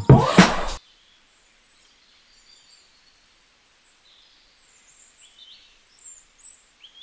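A short, loud burst of noise in the first second, then quiet with faint, scattered high bird chirps, most of them in the second half.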